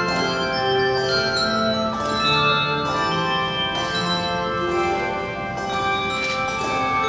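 Handbell choir playing a piece: chords of bells struck about once a second, their notes ringing on and overlapping.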